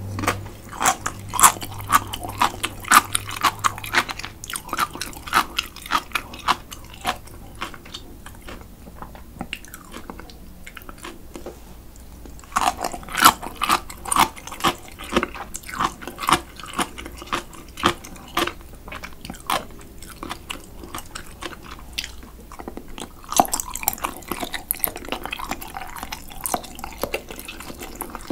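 A person chewing cold naengmyeon noodles close to the microphone: crisp, wet chewing in three spells, with quieter pauses about eight to twelve seconds in and again about twenty seconds in.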